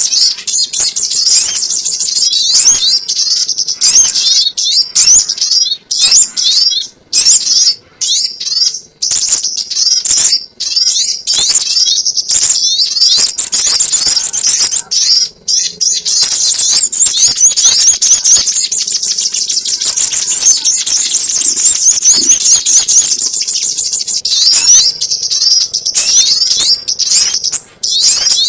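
Lure recording of sogon ontong bird calls: dense, rapid, high-pitched chirps and trills, repeating almost without pause and broken by brief gaps.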